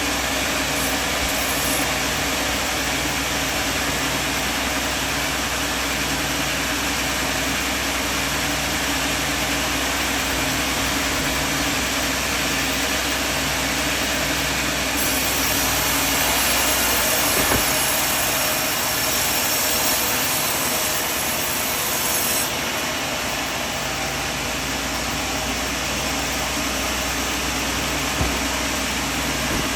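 Sawmill machinery running steadily: a constant engine drone with a low hum that pulses at an even rate, and a brighter hiss for several seconds past the middle.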